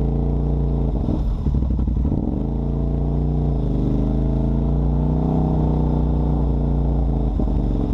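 Off-road vehicle engine running steadily, its pitch dipping and rising gently with the throttle. About a second in, a short stretch of rattling and knocking runs for a second or so.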